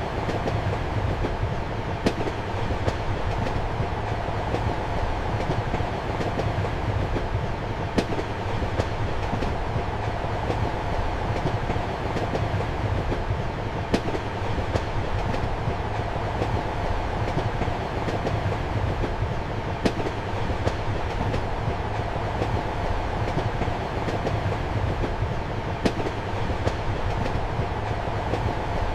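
Passenger train running steadily, heard from inside a compartment: a constant rumble and hum with a sharp wheel knock over the rail joints about every six seconds and fainter clicks between.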